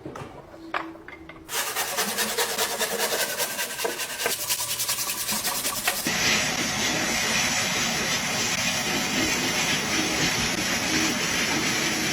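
Rapid abrasive rubbing strokes, like sanding or filing, which change about six seconds in to a steady hiss.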